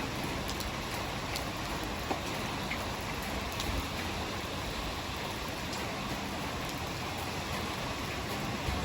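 Heavy rain falling steadily: a dense, even hiss with scattered ticks of single drops.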